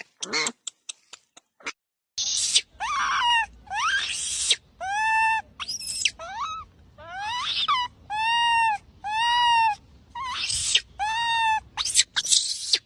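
A young animal calling over and over, about a dozen high, drawn-out cries each about half a second long, some arching and some rising in pitch, starting about two seconds in after a few faint clicks.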